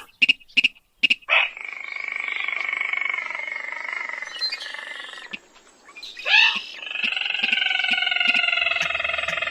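Rail's call (Indonesian 'sintar' or mandar padi) played as a lure recording. A few sharp ticks are followed by two long, trilling calls, the first slowly falling in pitch, with a short rising squeal between them.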